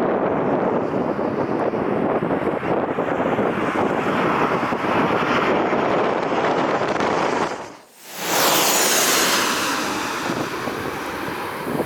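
Strong wind buffeting the microphone with a loud, uneven rushing. Just under two-thirds in it cuts out for a moment, then resumes with a hiss that falls in pitch.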